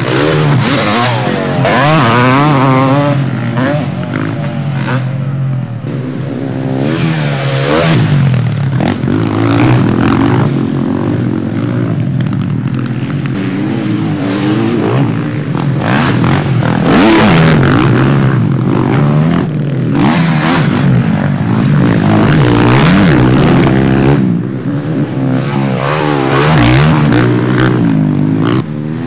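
Several motocross bikes racing past, their engines revving up and dropping back again and again through the gear changes, with overlapping engine notes from different bikes.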